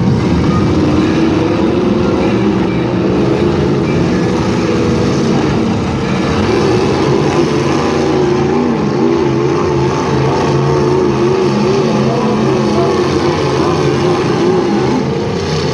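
Engines of several demolition derby trucks running and revving together in a continuous loud din, their pitch wavering up and down as the drivers throttle.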